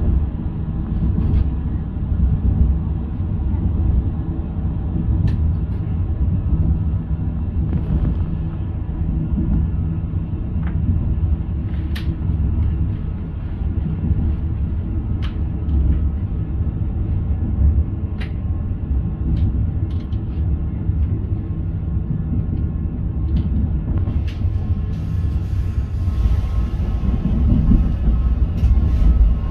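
Passenger train running, heard from inside the carriage: a steady low rumble of wheels on track, with a sharp click of the wheels over rail joints and points every few seconds. A hiss rises over the last few seconds.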